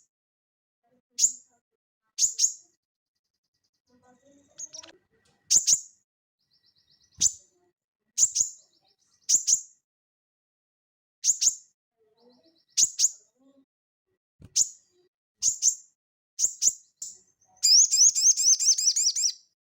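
A sogon (sogok ontong) songbird calling: sharp, high-pitched single chirps about once a second, then a fast run of rapid repeated notes lasting just under two seconds near the end.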